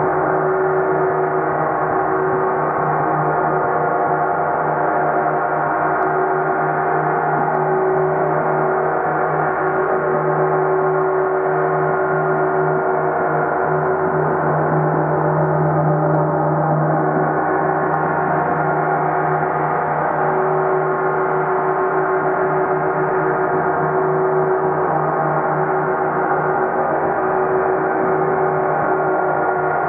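30-inch (75 cm) Earth Element symphonic gong sounding a continuous, dense wash of overtones at a steady level. Its deep low tones swell and fade without a break.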